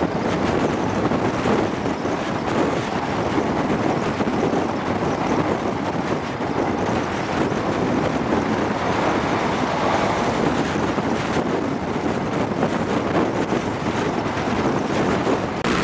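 Passenger train running at speed, heard from an open window: steady wind rushing over the microphone over the train's running noise on the track.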